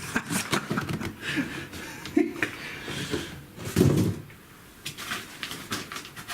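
Handling of packaging and leads while unboxing: scattered rustling and small clicks, with one dull thump about four seconds in.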